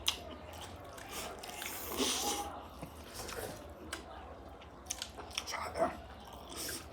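A person biting and chewing food, heard as a string of short wet clicks and smacks from the mouth, with a louder, noisier stretch about two seconds in.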